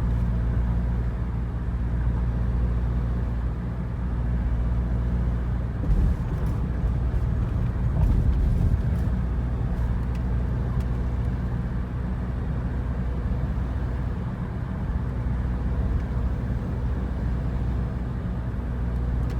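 Steady engine and road noise from inside a moving vehicle, a constant low drone, with a couple of brief bumps about six and eight seconds in.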